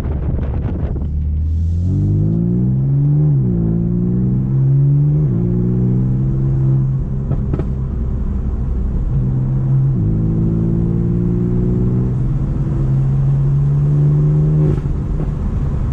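BMW M4's twin-turbo straight-six running through a straight-piped, decatted Akrapovic exhaust while the car accelerates and upshifts. The engine note rises, then falls sharply about three seconds in, again near five seconds and ten seconds, and once more near the end, with steady cruising stretches in between. A few sharp pops come near the start.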